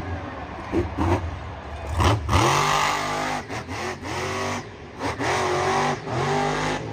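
Car engine revving, its pitch rising again and again about once a second from about two seconds in.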